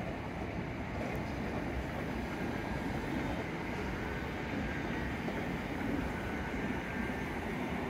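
Southern Class 377 Electrostar electric multiple unit pulling slowly out of a station, a steady low rumble of the train rolling along the track.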